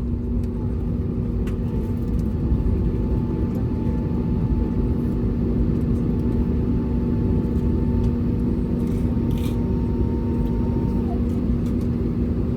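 Steady cabin rumble and hum of an Airbus A320neo with its engines running, heard from inside the passenger cabin. A faint, thin, steady whine sits over it from about two seconds in until shortly before the end.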